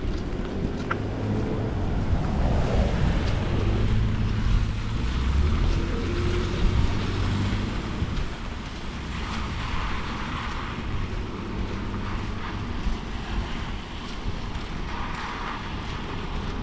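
Rainy street ambience: a motor vehicle rumbles past during the first half, then lighter traffic noise with wind on the microphone.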